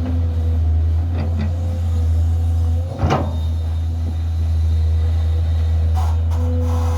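Komatsu D85 bulldozer's diesel engine running with a steady low hum, with a sharp metallic clank about three seconds in and a couple of lighter knocks a little after one second.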